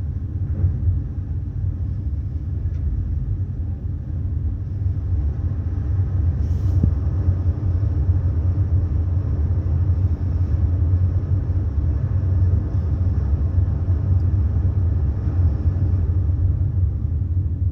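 Large car ferry's machinery heard inside a passenger cabin during berthing: a steady, deep rumble carried through the hull.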